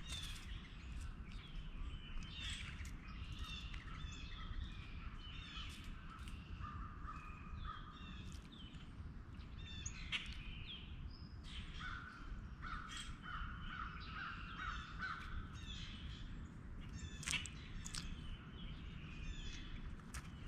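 Corvids calling outdoors: repeated harsh, cawing calls throughout, over a steady low background rumble, with scattered sharp clicks.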